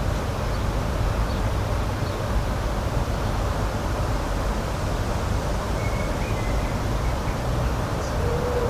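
Steady outdoor rushing noise, heaviest in the low end, with no distinct events.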